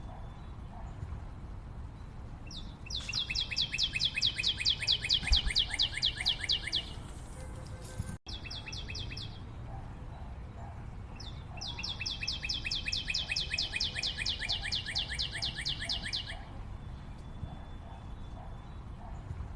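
A bird's rapid trill of evenly repeated high notes, about ten a second, lasting around four seconds and given twice, over a steady forest background hiss with fainter lower calls.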